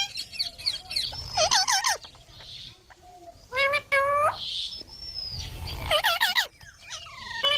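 Baby green parrot chirping: clusters of short calls that rise in pitch, several in quick succession, repeated every second or two.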